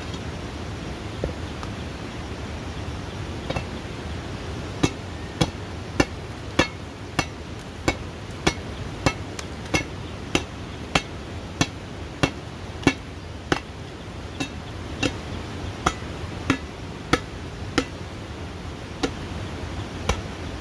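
Steady hammer blows, about one and a half a second, starting about five seconds in and spacing out near the end, over steady background noise.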